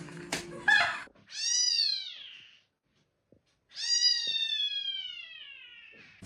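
A cat meowing twice with long, drawn-out meows. The first rises and then falls in pitch. The second is longer and slides slowly downward. A few sharp clicks come before them.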